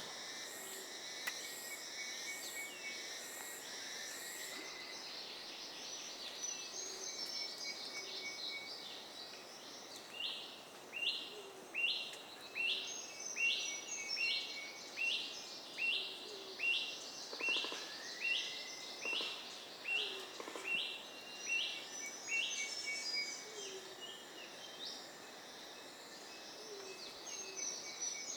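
Tropical forest chorus of birds and insects. For about twelve seconds in the middle, one bird calls the same short note over and over, roughly once a second.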